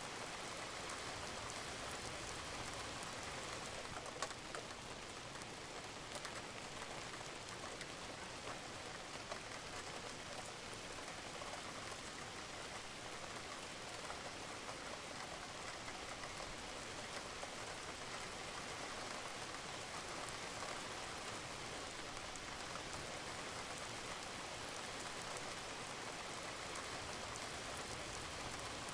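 Steady rain falling on a roof, with scattered drips and occasional louder drops.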